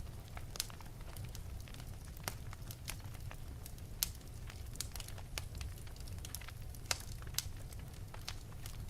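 Wood fire in an open fireplace crackling, with irregular sharp pops and snaps, the loudest about four and about seven seconds in, over a low steady rumble of the flames.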